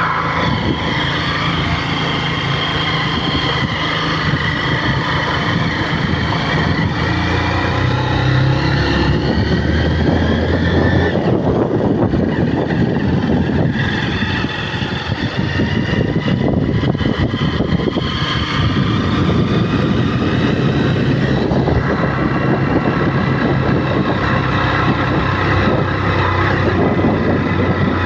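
A motor vehicle running while under way: a steady low engine rumble whose pitch drifts up and down, with a rough noise over it.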